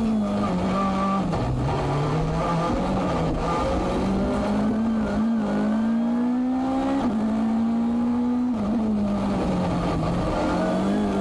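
Hyundai i20 N Rally1 car's 1.6-litre turbocharged four-cylinder engine pulling hard, its note climbing steadily through each gear and dropping sharply at quick upshifts about seven and eight and a half seconds in.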